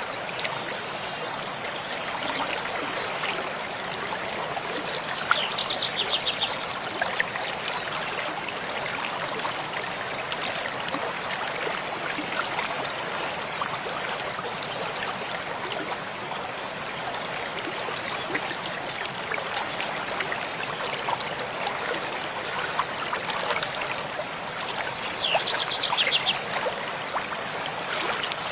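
Mountain stream flowing steadily over rocks, an even rushing of water. A bird sings short phrases of quick high notes twice, about five seconds in and again near the end.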